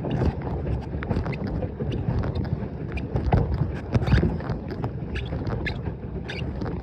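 Small boat being paddled on a pond: irregular water splashes and light knocks against the hull, over a low rumble of wind and handling noise.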